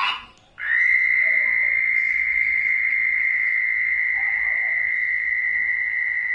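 A short frog croak, then after half a second one long, steady, high-pitched frog trill lasting nearly six seconds that stops abruptly.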